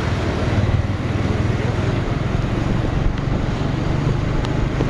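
Motorcycle engine running steadily with a continuous low rumble, mixed with road and wind noise.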